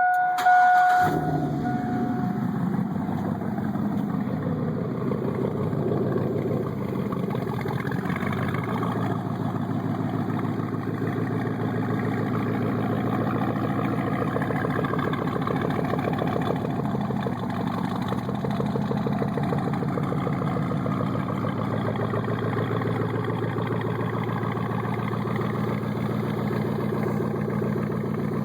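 2000 Chevrolet Silverado Z71's 5.3-litre LM7 V8 starting about a second in, then idling steadily through a true dual exhaust with no mufflers and high-flow cats. A steady electronic tone sounds at the start and stops about two seconds in.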